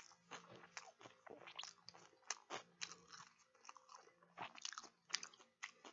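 Someone chewing a mouthful of sushi roll: faint, irregular short mouth clicks and smacks.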